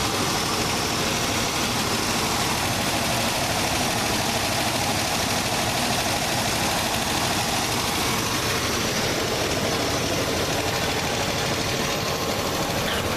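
Carbureted Chevy 350 small-block V8 running steadily shortly after a cold start, still cold and not yet warmed up.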